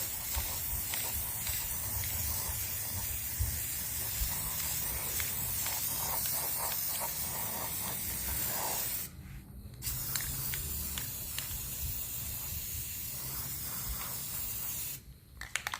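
Aerosol spray-paint can spraying a steady hiss, about nine seconds long, then after a short pause a second spray of about five seconds that stops near the end.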